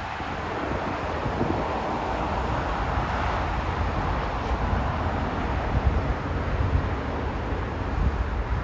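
Jet airliner noise rising to a peak about three seconds in and slowly fading, with wind buffeting the microphone.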